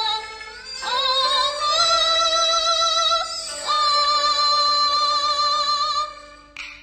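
Teochew opera singing: a high voice holds long notes with vibrato, sliding up into each one, in three drawn-out phrases with short breaks between. The last phrase fades about six seconds in, followed by a brief hiss near the end.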